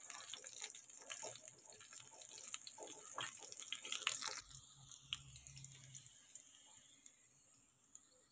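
Chicken nuggets sizzling and crackling in shallow hot oil in a frying pan as they are turned over with a spatula; the sizzle drops to a quieter hiss about four seconds in.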